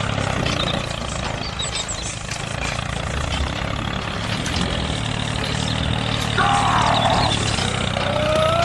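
Tractor engine running steadily with a low hum. Two short, arching high calls come through over it, one about six and a half seconds in and one at the end.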